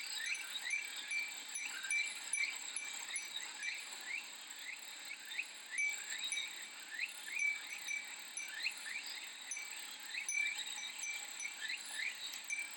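Japanese glass wind chime (fūrin) tinkling in repeated short strikes over a steady, high cicada drone, with many short rising chirps throughout.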